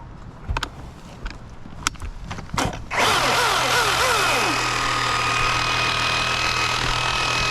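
A chainsaw starts about three seconds in after a few light knocks, then runs steadily with a constant whine.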